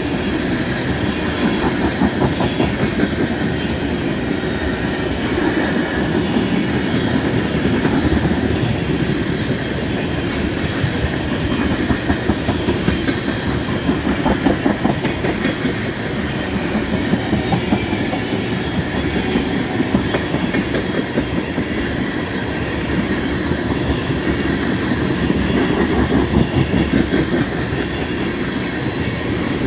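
Freight train tank cars rolling past, their steel wheels clattering over the rail joints in a continuous, steady clickety-clack.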